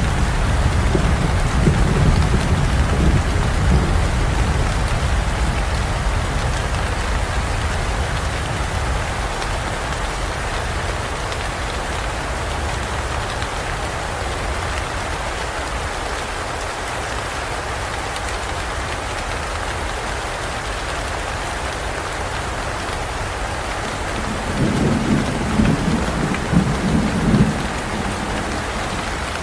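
Steady heavy rain falling, with a rumble of thunder rolling away over the first few seconds and another low rumble of thunder near the end.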